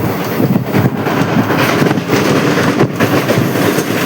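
Passenger train running along the track, heard from on board: a loud, continuous rumble and clatter of the wheels and coach.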